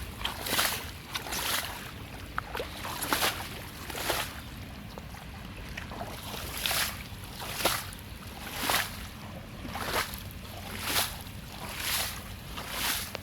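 Rhythmic swishing splashes in water, roughly one a second with a short pause partway through, over a steady low rush.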